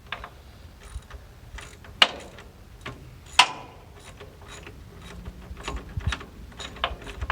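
Hand ratchet wrench clicking in short, irregular runs as bolts are worked, with two sharper metal clinks about two and three and a half seconds in.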